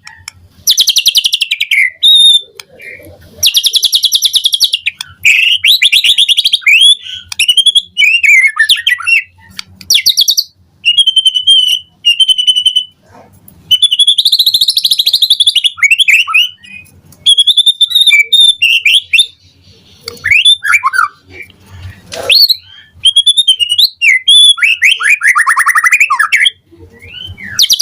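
White-rumped shama (murai batu) singing a loud, varied song. Phrases of rapid buzzy trills alternate with clear whistled notes and downward-sweeping notes, with short pauses between phrases.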